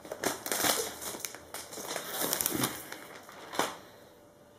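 Plastic packaging film crinkling and rustling as it is handled, in irregular bursts that die down near the end.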